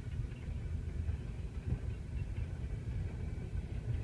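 Freight train of covered hopper cars rolling across a grade crossing: a steady low rumble of steel wheels on rail, muffled as heard from inside a car.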